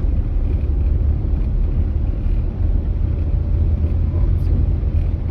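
Low, steady rumble of a manual-transmission car being driven.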